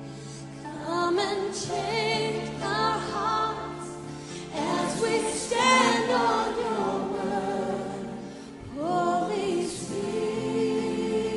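Choral Christian music: voices singing a slow hymn-like melody with vibrato over sustained accompaniment.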